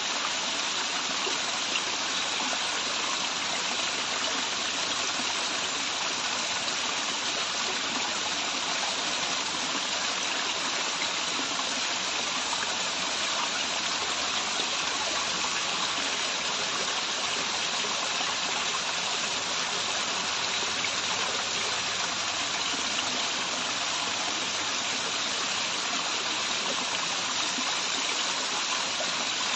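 Steady rush of water from a small waterfall, an even hiss without breaks or changes.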